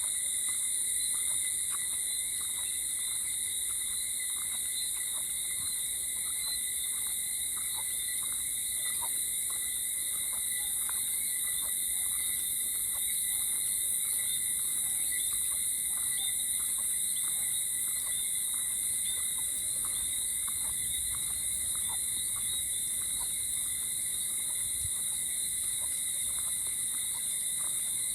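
Steady night chorus of insects and frogs, a high continuous shrill with lower steady trills, over the regular tick of footsteps at a walking pace.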